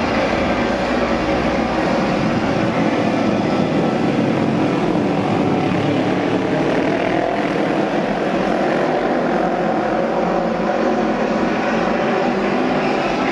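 A pack of auto race motorcycles running at racing speed on the oval, their engines blending into a steady, loud drone whose pitches drift as the bikes accelerate and pass.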